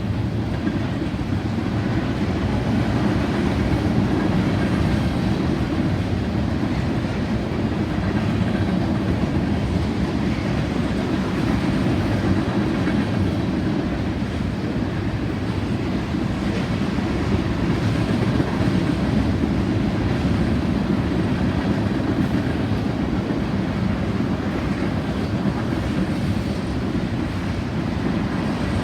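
A train's cars rolling past on the rails: a steady low rumble of wheels on track that holds evenly throughout.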